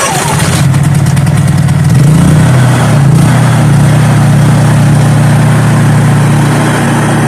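Honda generator's engine running steadily just after an electric start, its pitch wavering briefly about two seconds in before settling. It runs on a freshly fitted carburetor that replaced one clogged with crystals from stale gas.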